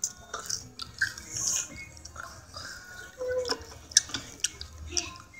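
Close-up wet chewing and lip smacks, many short irregular clicks of a mouth eating food.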